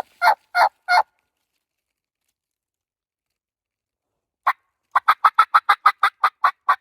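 Wild turkey yelping: a run of evenly spaced yelps about three a second that stops about a second in, then after a silent gap one yelp and a faster run of about seven notes a second near the end.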